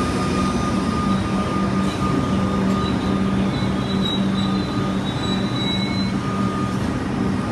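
Comeng electric suburban train at the platform: a steady hum with thin, high, steady whines over it.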